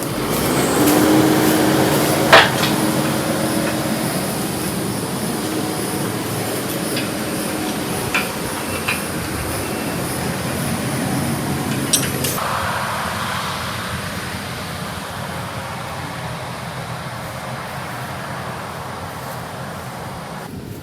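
A vehicle's engine running steadily while pulling through brush. There is a sharp crack about two seconds in and another near the middle.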